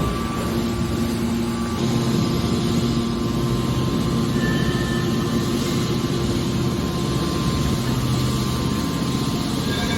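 Hydraulic scrap metal baler shear running: a steady, loud machine hum with a low drone from its hydraulic power unit, with no distinct cutting or pressing impacts.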